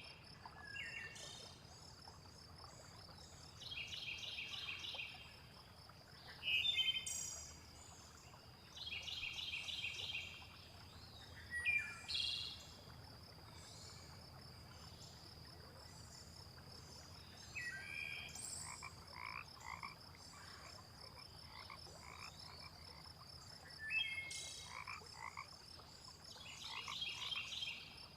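Frogs calling in rapid pulsed bursts that repeat every few seconds, over a steady high insect drone. Short, sharp bird chirps break in now and then, with a faint low rush of water beneath.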